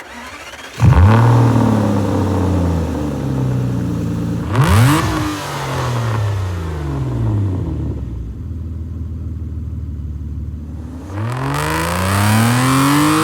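Aston Martin V12 Vantage's V12 engine revving: a sudden loud rev about a second in, a quick blip a few seconds later, a spell of steady idle, then a longer climbing rev near the end.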